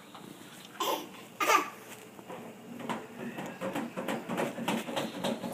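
A toddler gives two short squeals that slide down in pitch, about a second apart, followed by soft, rapid clicking and rattling of items being handled.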